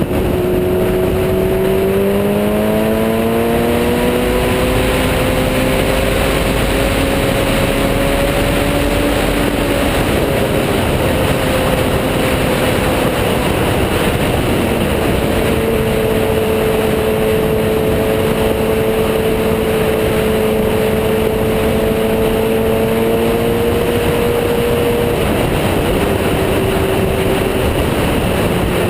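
Motorcycle engine under way on the road, its note rising steadily for several seconds, then easing and holding a steady cruise before dropping again near the end, over a constant rush of wind noise.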